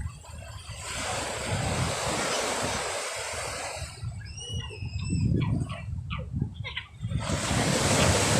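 Sea waves washing onto the shore, one wash swelling about a second in and another near the end, with a few short high calls in the lull between them.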